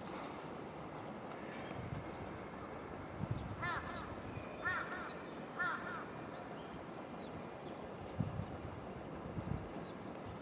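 A crow cawing three times, about a second apart, with small birds chirping over a steady background hum.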